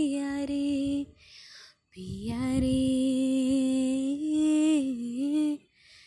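A girl's solo singing voice, unaccompanied, holding long wordless notes. There is a short breath about a second in, then one long note that dips in pitch twice before it stops near the end.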